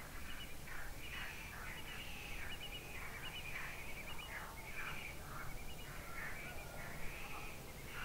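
Birds calling: a quick string of short calls that each fall in pitch, over a low steady background rumble.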